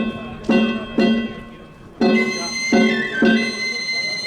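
Danjiri festival narimono: drum and metal hand gongs struck together about twice a second, each stroke ringing. A bamboo flute comes in about halfway with a melody that steps downward.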